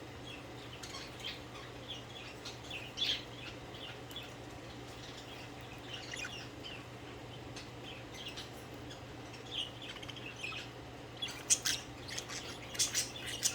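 Several budgerigars chirping and chattering in short, scattered calls, louder and busier near the end, over a faint steady hum.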